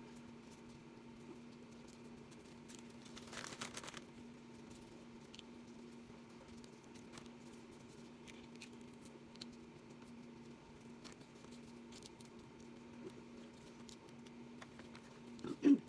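Steady low hum of a dishwasher running, under small kitchen handling sounds while capsicums and chillies are cut and seeded: light taps and scrapes, a brief rustle about three and a half seconds in, and a louder knock near the end.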